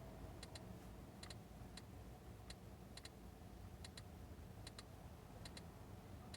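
Quiet, sharp clicks from a car's infotainment controls as its menus are scrolled through, coming in quick groups of one to three, about one group a second, over a low cabin hum.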